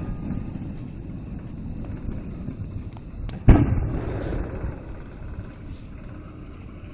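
Aerial fireworks shells bursting: a sharp crack and then a loud boom about three and a half seconds in, its rumble rolling on for a couple of seconds. Faint crackling follows, and another boom lands at the very end.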